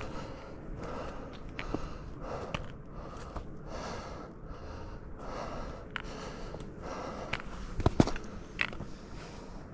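A hiker's heavy breathing while walking, steady rhythmic breaths. A few sharp taps sound near the end.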